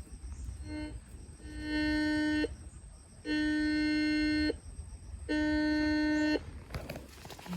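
Three long tones at one steady pitch, each lasting about one to two seconds with short gaps between them.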